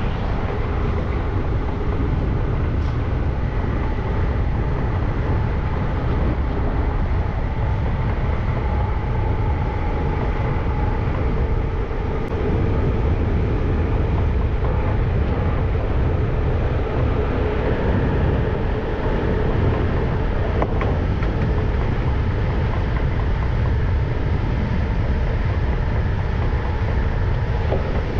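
Siemens Vectron electric locomotive hauling a heavy freight train at speed: a steady low rumble of wheels on rail, with faint steady whining tones running through it.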